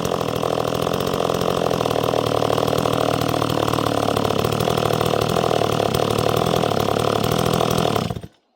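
Two-stroke chainsaw engine idling steadily after coming down off high revs, cut off abruptly near the end. The owner thinks this saw has a bad carburettor.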